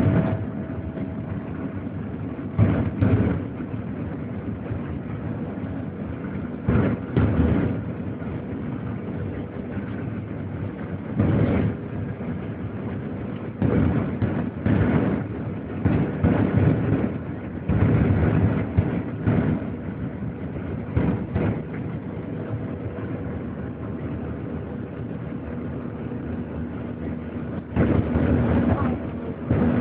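Cabin noise inside a Boeing 737-800 on the ground: a steady engine and airflow hum, broken every couple of seconds by short, irregular bumps and rattles.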